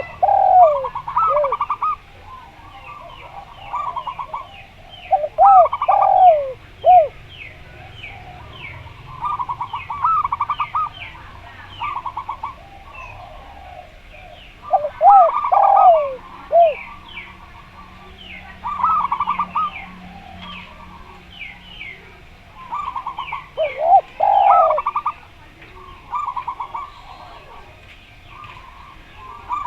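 Doves cooing in bouts about every four to five seconds: a zebra dove's fast trains of short staccato coos alongside deeper, swooping coos from a second dove. Small birds twitter steadily and high-pitched throughout.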